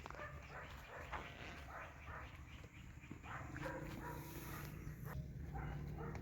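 Short animal sounds repeating several times a second over a steady low rumble.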